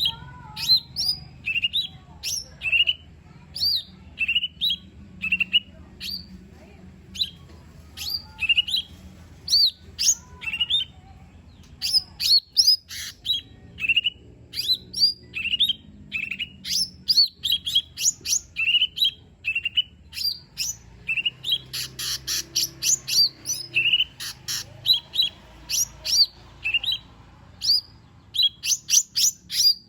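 Cucak ijo mini, a small leafbird, singing a continuous string of short, sharp whistled notes, about two a second, broken by quick rapid-fire runs about two-thirds of the way through and near the end.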